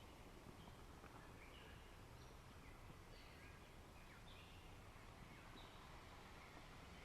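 Faint nature ambience: scattered short bird chirps over a low, steady wash of waves.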